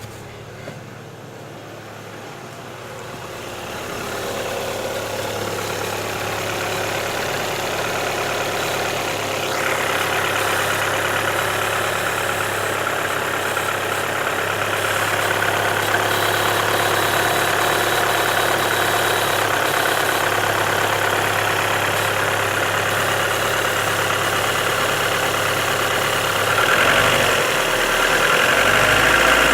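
Car engine running steadily, growing louder over the first several seconds and a little louder again near the end, with a knock whose cause is being sought.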